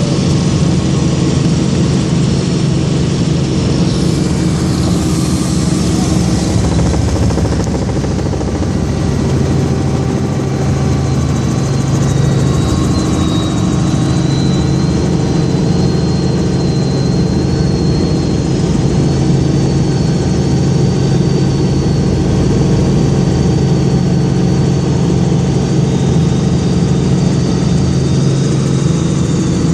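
Helicopter in flight: a steady drone of engine and rotor with a thin high whine over it.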